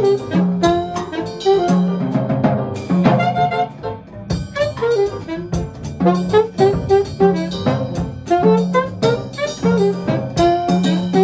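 Jazz quartet playing: a horn carries a melody of short, quick notes over a walking bass line and a drum kit with cymbals.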